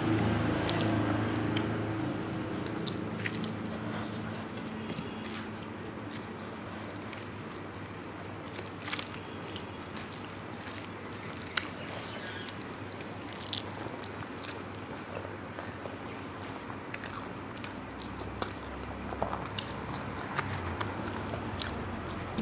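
Close-miked eating sounds: chewing of rice and curry, with small wet mouth clicks and smacks scattered irregularly throughout.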